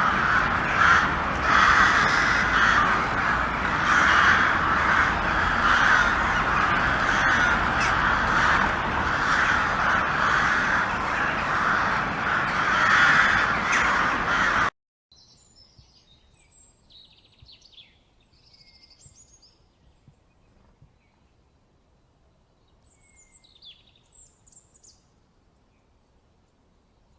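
A large flock of birds calling all at once, a dense, pulsing clamour of crow-like caws, which cuts off abruptly about halfway through. Then only faint, scattered high chirps of small birds.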